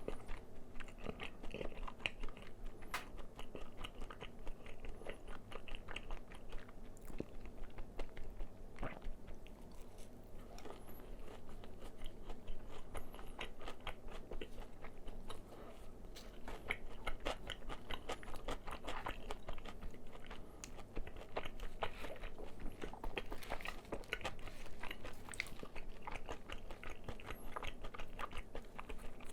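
Close-miked chewing of crispy fried chicken: dense, irregular crunching of the fried coating with bites and mouth sounds.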